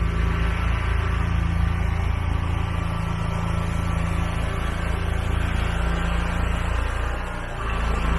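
Large gas engine of a leaf-cleanup machine running steadily under load, its pitch and level dipping briefly near the end before picking back up.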